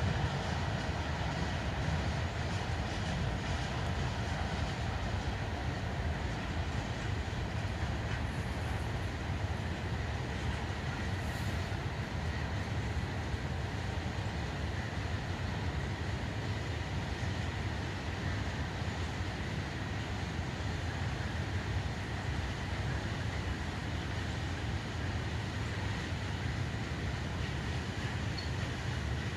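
A freight train's cars rolling past, a steady unbroken wheel-and-rail noise that neither builds nor fades.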